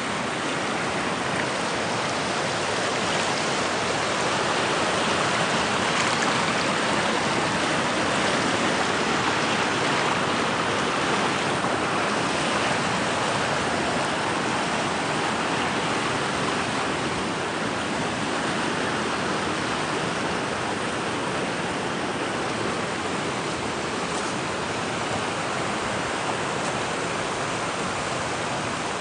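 A swollen river rushing and churning in a steady full roar of water, running high after rain.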